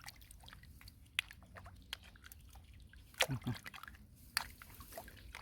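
Water dripping and sloshing in a series of small separate drops and splashes, with a louder splash about three seconds in.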